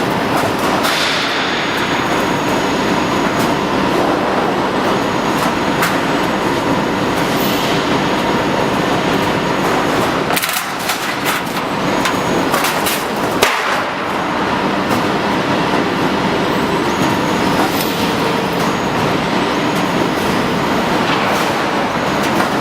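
Garage door panel roll forming machine running: a steady, loud industrial clatter with scattered sharp clicks and knocks.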